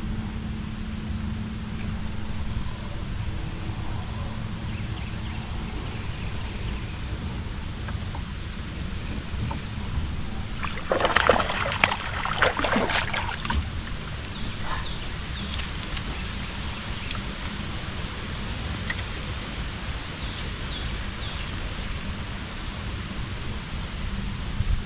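Water splashing and trickling around a kayak, with a louder spell of splashing about eleven seconds in and small scattered drips afterwards, over a steady low rumble of wind on the microphone.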